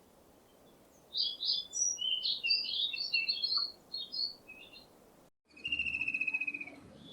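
A songbird singing a quick, varied run of high chirps and warbles for about four seconds. After a short break, a second bird gives one fast, even trill lasting about a second.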